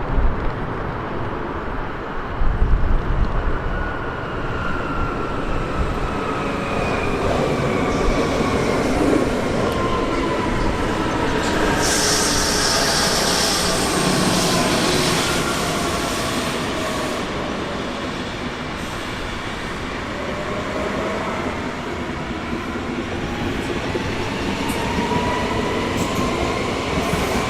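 Electric train running through the station with a steady rolling rumble. Its motor whines glide down in pitch over the first half and glide back up later. A burst of high hiss comes about twelve seconds in.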